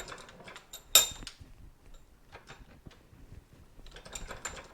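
Metal clinks and rattles of tools and parts being handled at a workbench, with one sharp, ringing metallic clank about a second in and a run of small clicks near the end.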